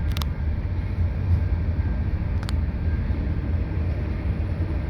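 Canadian National freight train passing close by: a steady low rumble, with two brief sharp clicks, one just after the start and one about two and a half seconds in.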